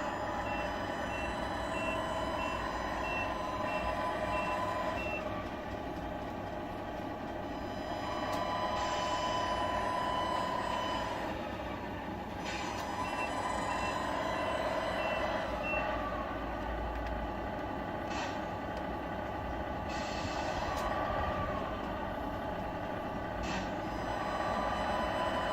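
Sound units of Tamiya 1/14-scale RC trucks: a simulated diesel engine running steadily, with a reversing beeper sounding in two runs of evenly spaced beeps, the first starting about half a second in and the second about 13 seconds in. Short air-brake hisses come several times in between.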